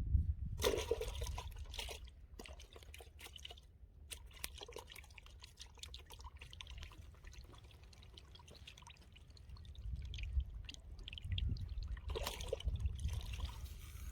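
Water splashing and trickling in short spells, loudest just after the start and again near the end, over a steady low rumble.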